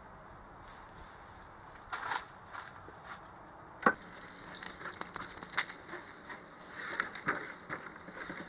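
Wood bonfire crackling: irregular small clicks and snaps over a low hiss, with one sharp pop about four seconds in.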